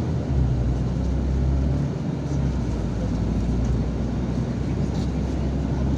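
Yutong ZK6128HG city bus on the move, heard from inside: a steady low engine drone with road rumble. The deep rumble swells about half a second in and eases about two seconds in.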